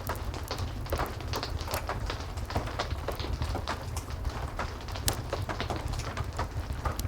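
Heavy rain and a crackling wood fire: a steady low rumble under many irregular sharp pops and snaps.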